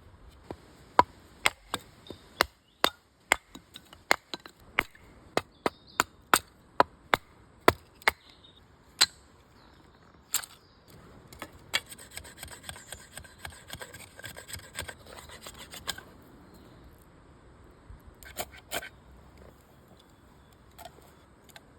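Bamboo being chopped: sharp, woody knocks at a steady pace of about two a second, followed by several seconds of scraping or rubbing on the wood and a couple of last knocks near the end.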